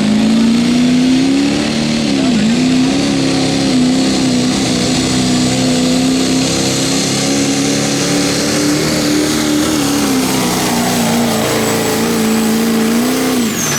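Diesel pulling truck's engine held at high revs under load during a pull, a steady high note with a brief dip about two seconds in. Near the end it falls away sharply as the throttle is let off, with a faint high whistle falling with it.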